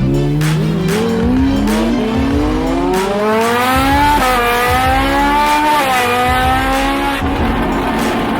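A high-performance car engine under hard acceleration, its pitch climbing steadily, dropping sharply at an upshift about four seconds in, then climbing again before the note stops near the end.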